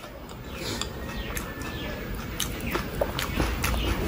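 Close-miked chewing and wet mouth sounds, with many small clicks and crackles as a crisp panipuri shell is picked up and lifted to the mouth.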